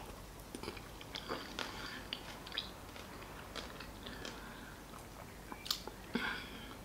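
A person chewing a mouthful of salad with chicken, mango, avocado, cucumber and onion: faint, with scattered small crunches and mouth clicks, a few a little louder near the end.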